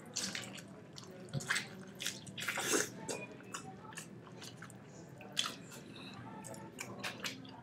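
A person chewing a big mouthful of tomahawk steak close to the microphone, with irregular wet smacks and clicks of the mouth, busiest a little before the middle.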